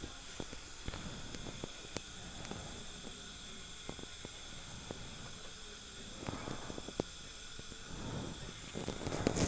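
Steady hiss of dental operatory equipment running, with scattered small clicks and two short rushes of noise, about six seconds in and near the end.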